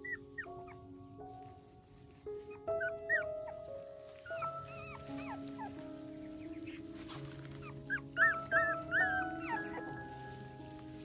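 Puppies whimpering and squeaking in short high rising-and-falling cries, in clusters that are loudest about eight seconds in, over soft background music with held notes.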